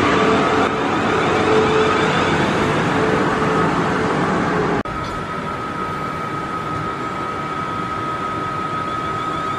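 Train running through a station: a loud, steady rumble of wheels on rails with a steady whine. About halfway in it cuts off abruptly and gives way to a quieter, higher steady whine.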